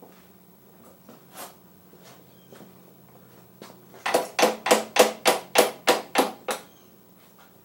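Hammer blows on metal: one light blow about a second and a half in, then a quick run of about nine louder blows, roughly four a second, each ringing briefly.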